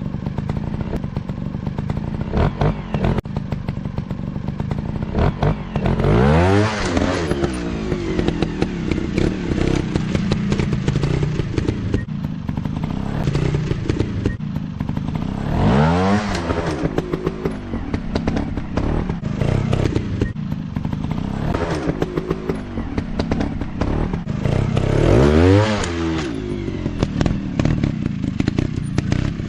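Dirt bike engine running, revving up sharply three times, about 10 seconds apart, with clattering and scraping between.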